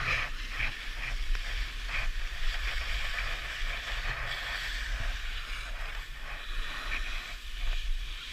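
Skis scraping and hissing over packed snow in short irregular strokes, over a steady low wind rumble on the helmet-camera microphone.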